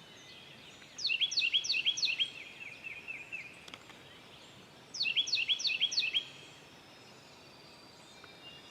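A songbird singing, twice: each phrase is four clear whistled notes sweeping sharply downward, then a quick run of softer trilled notes. The first phrase comes about a second in, the second about five seconds in.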